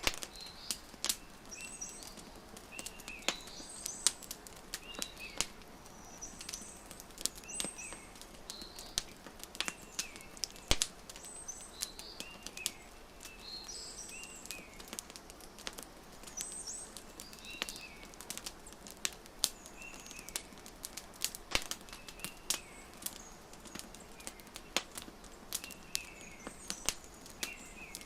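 Wood fire crackling with frequent sharp pops, over a bird chirping in short high calls repeated every second or so.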